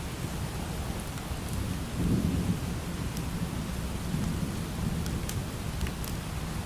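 Steady light rain with a low rumble of thunder that swells about two seconds in and again a couple of seconds later, with a few scattered sharp ticks.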